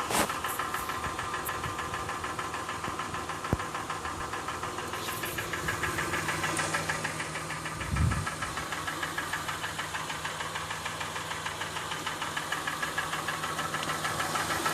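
2007 Honda Ridgeline's 3.5-litre V6 idling in park with a rapid, even ticking noise of a few strokes a second riding on it, the abnormal engine noise the owner is complaining of. A short low thump about eight seconds in.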